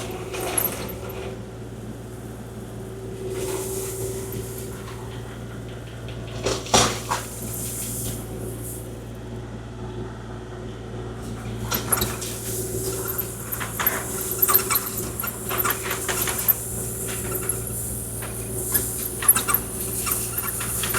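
Kubota KX040-4 mini excavator running steadily while grading gravel, with irregular clunks, clicks and scraping from the bucket and machine working the stones, busier in the second half.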